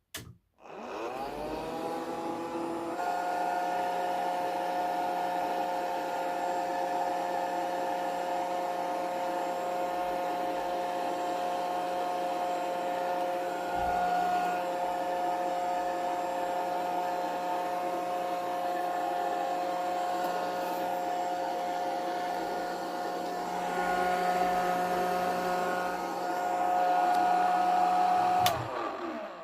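The small DC motor of a homemade plastic-bottle vacuum cleaner switches on, and its whine rises as it spins up. It then runs steadily, and winds down with a falling pitch near the end.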